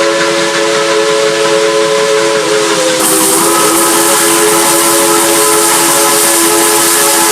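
Steam locomotive's chime whistle held in one long blast, several notes sounding together over hissing steam; the hiss grows louder about three seconds in.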